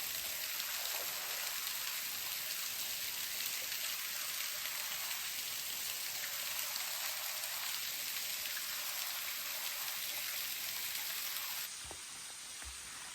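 Steady, even hiss of falling water, strongest in the high range. About twelve seconds in it cuts abruptly to a quieter hiss with a few light clicks.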